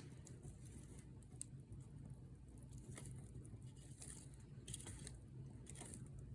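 Faint campfire crackling: burning wood giving scattered small snaps and pops over a steady low rumble.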